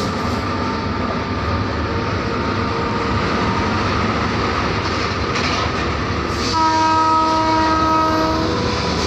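Electric locomotive running, with a steady rumble and rattle heard inside the cab. Near the end a multi-tone train horn sounds steadily for about two seconds.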